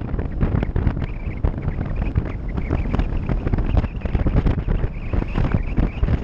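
Off-road vehicle driving over rough ground, with its engine running under wind buffeting the microphone and a steady run of knocks and jolts.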